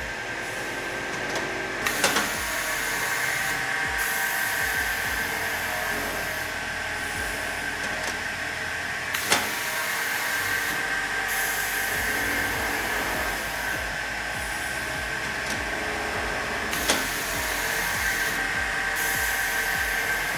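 Twin-motor CTD N90 16-inch double miter saw running, its motors and blades giving a steady whine. Three sharp clicks come about seven seconds apart.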